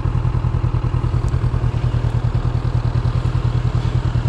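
Motorcycle engine running steadily at low revs, a low even throb with no revving.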